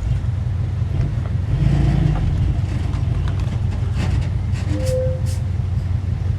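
Heavy diesel engine of earthmoving equipment running steadily, with a few short clanks past the middle.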